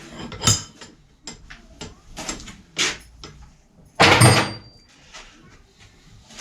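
A series of knocks and clatter from handling things in a small room, with one louder, noisy bang or rattle about four seconds in.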